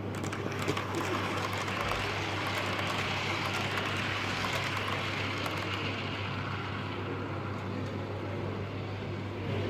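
Model diesel locomotives running on the layout: a steady whirr with a low hum, and a few faint clicks about a second in.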